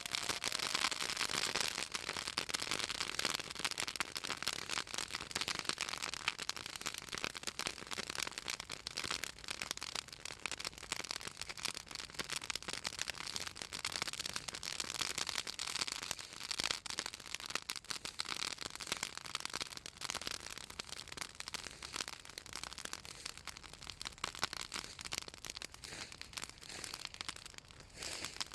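Bonfire of southern magnolia branches crackling, a dense run of sharp pops and snaps. The oil in the magnolia wood and leaves makes them crackle and spit as they burn.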